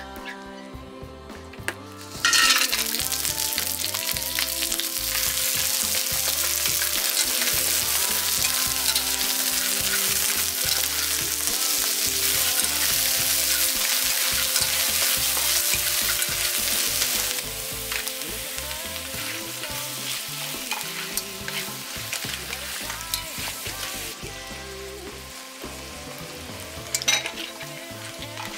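Food hitting a hot oiled pan and sizzling, with stirring: the sizzle starts suddenly about two seconds in, then dies down in two steps in the second half as the pan cools.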